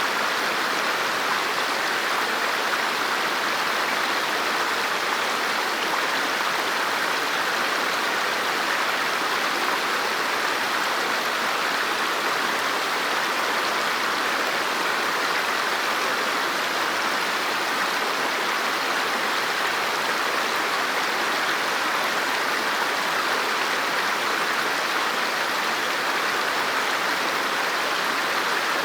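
River water flowing steadily over rocks, a constant rushing with no change throughout.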